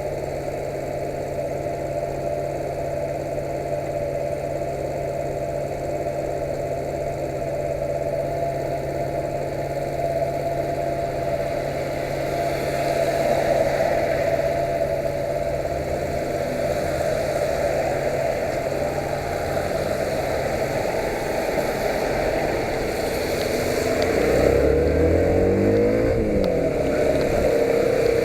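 Yamaha YBR 125's single-cylinder four-stroke engine running steadily, then rising in pitch several times a few seconds from the end as it is revved.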